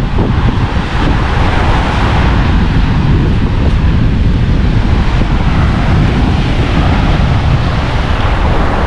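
Strong wind buffeting the microphone in a steady low rumble, with sea waves washing on the shore behind it.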